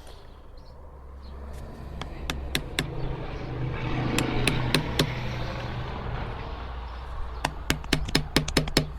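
Sharp hammer knocks on a log while digging out embedded nails: a few scattered strikes, then a quick run of about ten near the end. Under them runs a steady low mechanical hum that swells in the middle.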